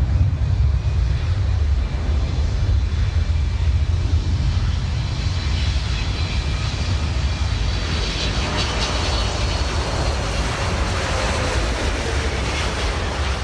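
Jet airliner engines passing close by: a loud, steady deep rumble, with a high engine whine that builds through the middle and a tone that falls in pitch near the end as the aircraft goes past.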